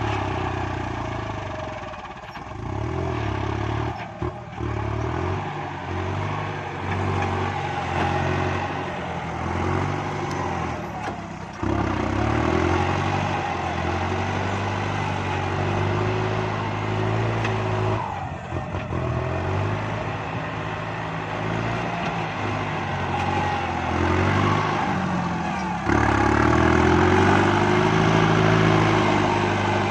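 Kubota MU5702 tractor's diesel engine running under working load while pushing soil. The engine note dips and picks up again several times and is louder near the end.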